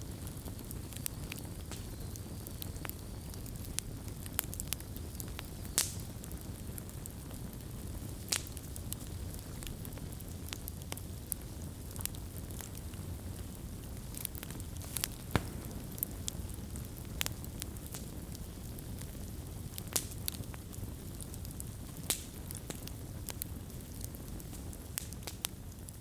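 Wood fire burning, a steady low rumble of flames with sharp irregular crackles and pops of burning wood.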